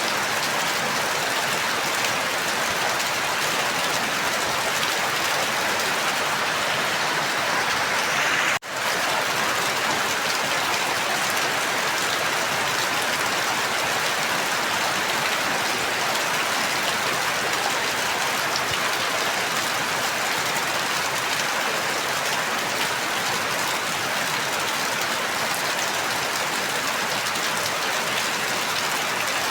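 Steady rain falling, an even hiss of drops with no distinct rhythm. A third of the way in the sound cuts out for an instant and resumes, like a splice in the recording.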